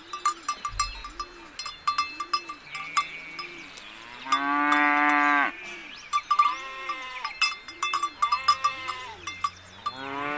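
Livestock bells clinking and clanking over and over, with long bleats from farm animals: one loud bleat in the middle, another soon after, and a third starting near the end.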